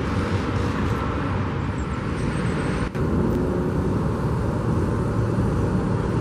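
Steady low outdoor rumble of vehicle noise, with a brief dip and click about three seconds in.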